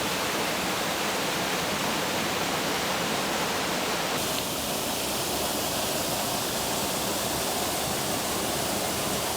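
Steady rushing of water pouring down waterfalls. The hiss in the upper range thins a little about four seconds in.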